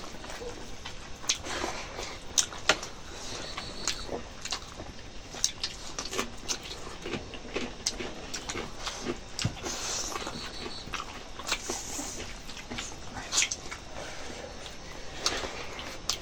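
Close-miked eating of chicken curry and rice: chewing with many irregular wet lip smacks and mouth clicks.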